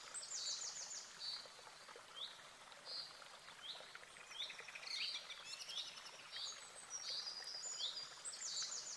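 Songbirds chirping: short falling whistled calls and quick high trills, one after another, over a faint steady hiss.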